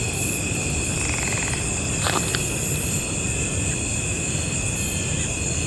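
Night chorus of crickets and other insects: steady, high-pitched trilling held at several pitches without a break, over a low rumble, with a brief click about two seconds in.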